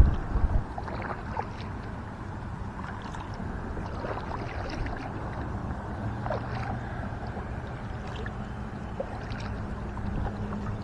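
Kayak being paddled through calm river water: paddle strokes and water dripping and lapping against the hull, with scattered small splashes. A louder low rumble comes in the first half second.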